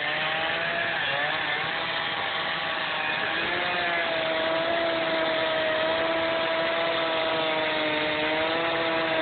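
Two-stroke chainsaw cutting into a log. Its pitch dips and wavers in the first few seconds, then holds steady at full speed for a long cut.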